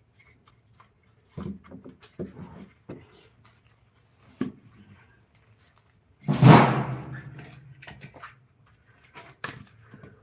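A series of light knocks and clatter from hard objects being handled, then one loud bang about six seconds in that rings briefly and dies away.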